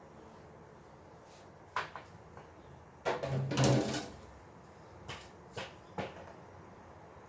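Knocks and clatter of baby-crib parts being handled and fitted together during assembly. There is a single knock, then a longer, louder rattling clatter about three seconds in, then three lighter knocks.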